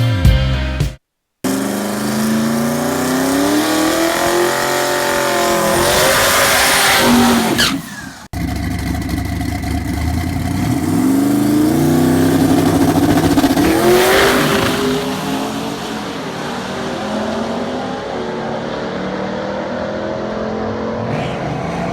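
Twin-turbo 1968 Dodge Dart drag car accelerating hard, its engine note climbing in pitch through the gears. It breaks off abruptly about eight seconds in, then a second run climbs again before easing to a steadier, quieter tone.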